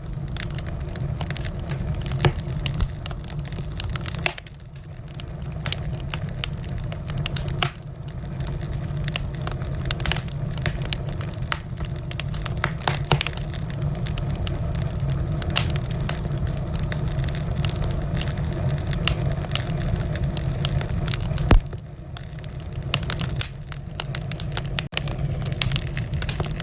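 Wood fire crackling in a fireplace: frequent sharp pops and snaps over a steady low rumble of the flames, with a louder pop about two seconds in and another about three-quarters of the way through.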